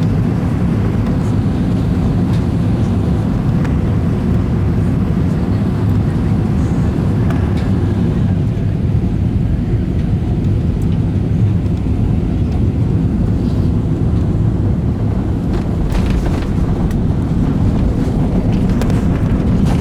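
Airbus A320 cabin noise heard from the rear of the cabin during landing: a steady, loud low rumble of the engines and airflow. A few light clicks or rattles come about sixteen seconds in.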